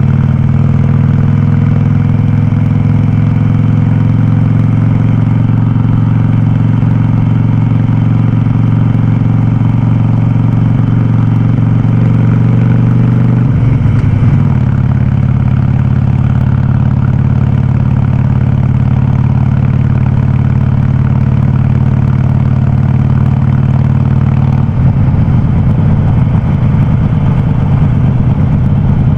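Harley-Davidson Sportster Forty-Eight's air-cooled V-twin running loud through a Vance & Hines aftermarket exhaust, holding a steady engine speed. It breaks briefly about halfway through, then settles again, and turns rougher and more uneven over the last few seconds.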